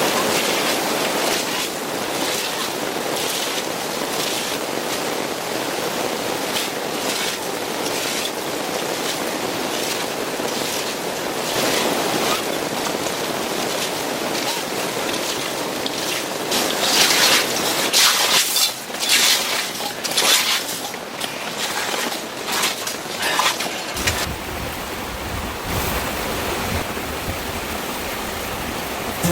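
Downpour with gusting wind: a steady roar of heavy rain that surges louder in gusts around the middle.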